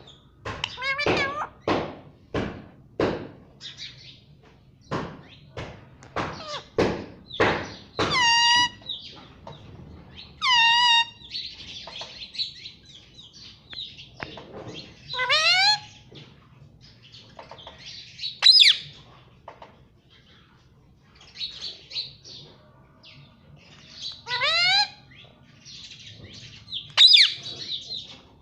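Indian ringneck parrot calling: repeated warbling squawks that rise in pitch, mixed with hissy, screechy calls. A quick run of sharp knocks fills the first several seconds.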